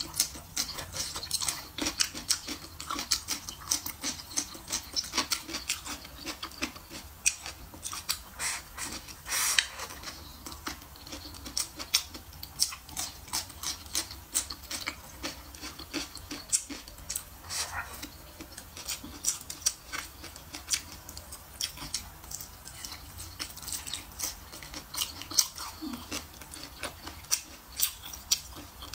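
A person chewing food close to the microphone: a continuous run of many small mouth clicks and smacks, with the occasional bite.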